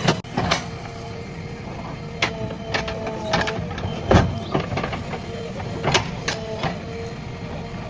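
JCB 3DX backhoe loader working: the engine runs under a dozen or so irregular knocks and clanks, with short squeaks in between, the loudest knock about four seconds in.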